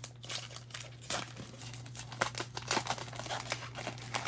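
Foil trading-card pack wrapper crinkling and tearing as it is opened by hand, in irregular crackly rustles.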